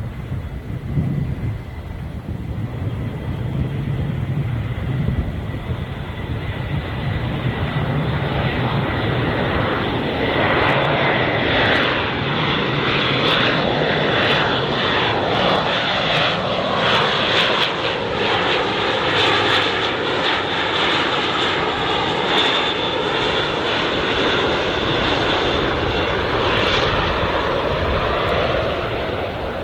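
Airbus A400M Atlas's four turboprop engines and propellers as the aircraft passes, the sound building over several seconds to a loud, sustained peak with sweeping pitch patterns, then starting to ease off near the end.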